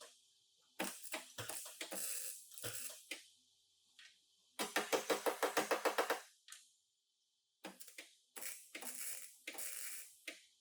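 Bodywork tools knocking and clattering on the car, with a fast, even run of about a dozen strikes just before the middle.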